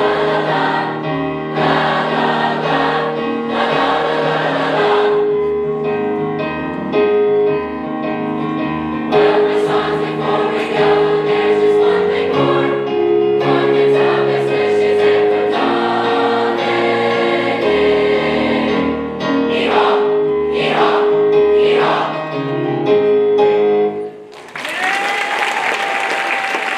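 A high school choir singing a Christmas concert song over instrumental accompaniment. The song ends about 24 seconds in, and the audience breaks into applause.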